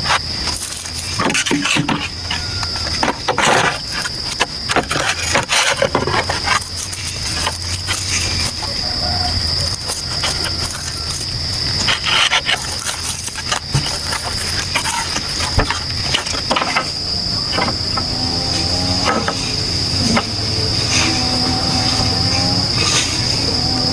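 Insects droning in a steady, shrill high tone, over irregular clicks and knocks of handling or work.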